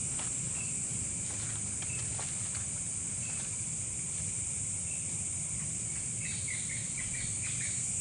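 Steady high-pitched chorus of night insects, with scattered faint chirps and a quick run of short chirping calls near the end: an unidentified night call that may be a bird.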